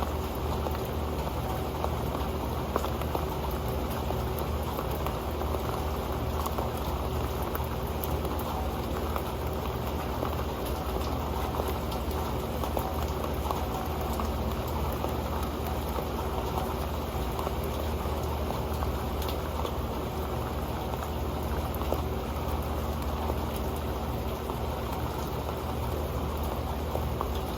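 Steady rain dripping and pattering onto an old pan: a dense, even spatter of small drops that never lets up.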